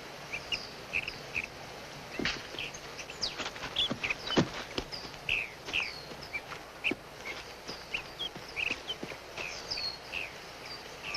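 Birds chirping: many short, quick calls, some falling in pitch, over a steady background hiss. A few sharp knocks come about two and four seconds in, the second the loudest sound.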